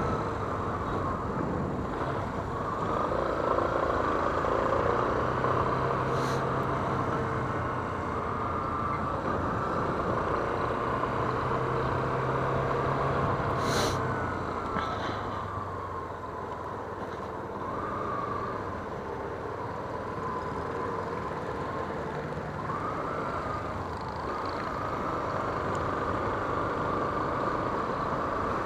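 Yamaha Fazer 250 single-cylinder motorcycle engine running while riding, its pitch rising and falling several times as the throttle is worked, over wind noise. There are a couple of short clicks.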